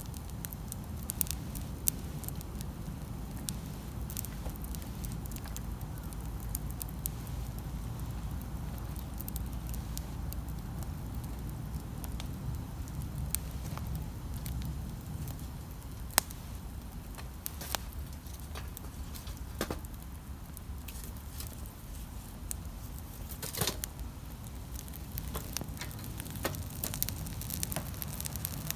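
Wood campfire crackling, with irregular sharp snaps and pops over a low steady rumble, and a quick cluster of snaps about three quarters of the way through.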